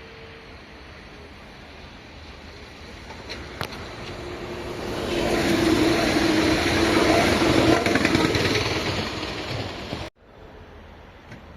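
A vehicle passes by: a rush of noise with a steady hum that swells, is loudest for a few seconds, fades, then cuts off abruptly.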